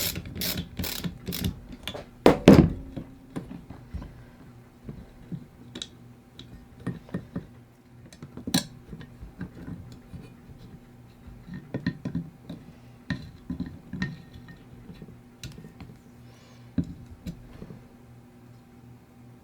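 Ratchet wrench clicking in quick, even strokes for the first second or so, then a loud clunk and scattered light knocks and clinks of metal tools and parts being handled, over a faint steady hum.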